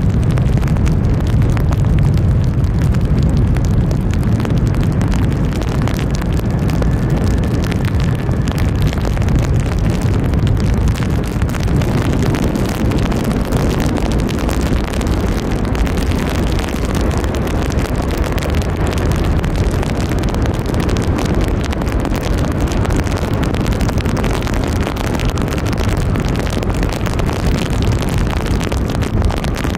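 Loud steady rumble of wind buffeting the microphone in heavy rain, mixed with the jet engines of a Boeing 767-300 coming in to land. A faint whine rises out of it for a couple of seconds in the first third.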